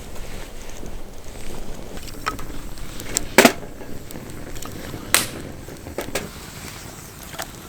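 Irregular sharp clicks and knocks, about six spread over several seconds, the loudest about three and a half seconds in, over a faint steady hiss.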